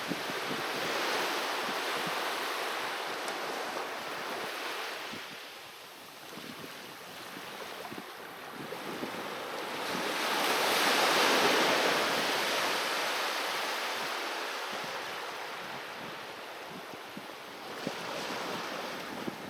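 Sea waves surging and washing onto the shore, rising and falling in level, with the biggest wave breaking about halfway through and another building near the end.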